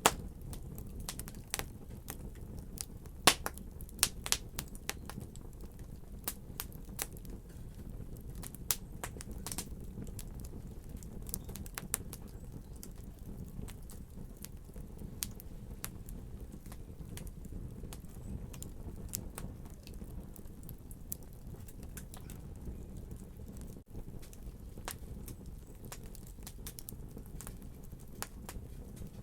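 Fireplace fire crackling: irregular sharp pops and snaps over a steady low rumble. The pops are densest in the first few seconds and thin out later.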